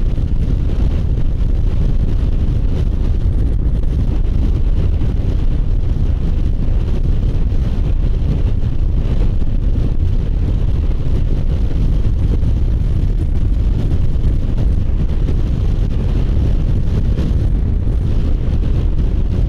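Wind rushing over the microphone of a moving Kymco Agility City 125 scooter, its single-cylinder engine running steadily underneath.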